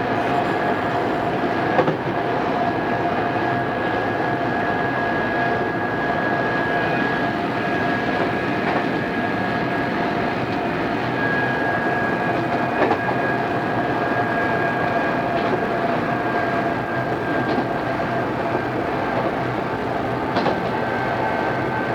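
Onboard running sound of an Odakyu 2600 series electric train at steady speed: a steady rumble with a constant whine, and a few sharp knocks from the wheels over rail joints.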